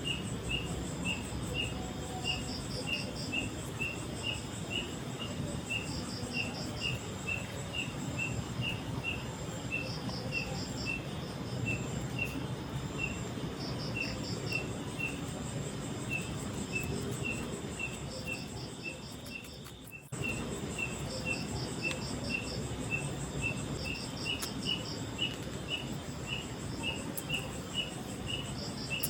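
Forest insects calling: one chirps steadily about twice a second while another gives short rapid trills every three to four seconds, over a constant high-pitched drone. A low steady rush lies beneath. All of it drops out briefly about two-thirds of the way through, then comes straight back.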